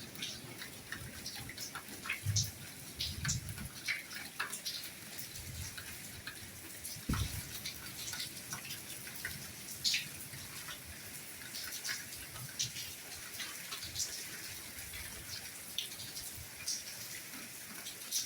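Steady rain hiss with scattered individual drops ticking and dripping close by, and an occasional low thud.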